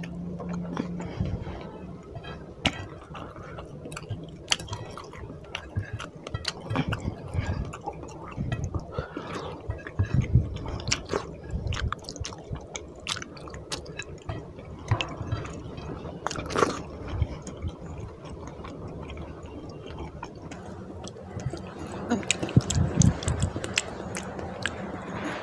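Close-miked chewing and wet mouth sounds of a person eating soft curry and rice by hand, with many irregular smacking clicks as he sucks and licks curry off his fingers.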